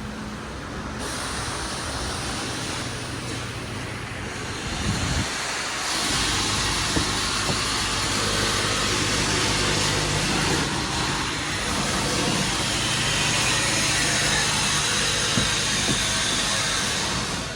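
Ford 1.5L three-cylinder EcoBoost engine of a 2022 Bronco Sport running steadily, with a loud hiss over it from about six seconds in.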